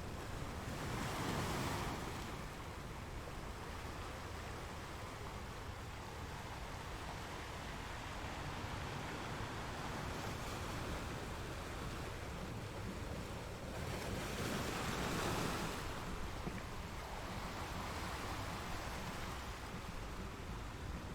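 Ocean waves washing on the shore in a steady surf, with two louder waves swelling and breaking, one about a second in and one around two-thirds of the way through.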